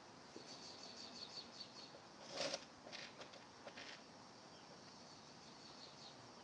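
Faint birdsong: a quick run of high chirps, then a louder call about two and a half seconds in, followed by a few short notes.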